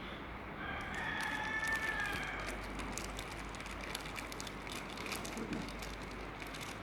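A distant drawn-out call, about two seconds long and held on a few steady pitches, over outdoor background noise with scattered light clicks.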